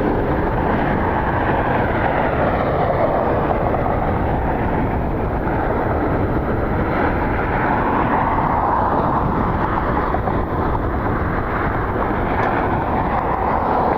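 Jet engine noise from a NetJets Cessna Citation business jet landing, buried in steady low rumble from strong wind on the microphone.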